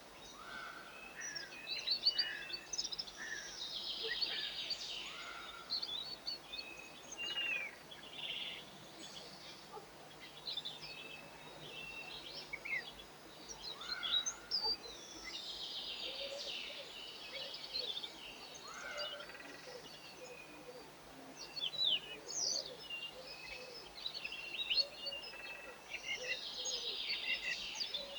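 Small garden songbirds chirping and twittering, with many short overlapping calls and trills throughout.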